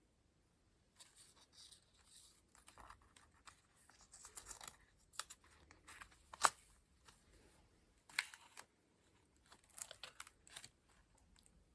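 Paper collage pages being turned by hand: a run of soft rustles and crinkles, with a few sharper crisp snaps of stiff paper, the loudest about six and a half seconds in.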